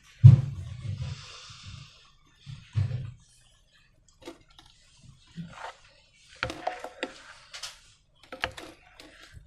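Hands handling slime and rubber balloons: a loud dull thud at the start and another about three seconds in, then a run of short sticky clicks and crackles.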